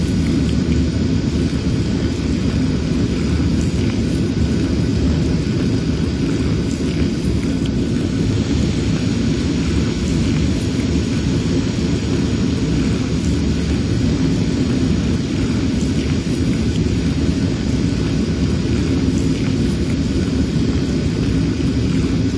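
Steady, loud, low engine rumble with a faint high whine above it. It holds even with no change during de-icing of an airliner.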